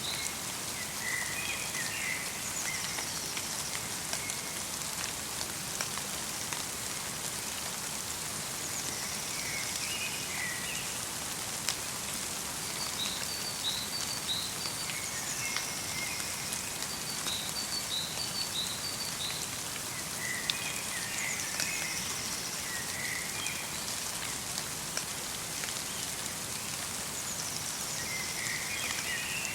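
Steady patter of light rain mixed with snow falling in a forest, with small birds calling in short chirping phrases every few seconds.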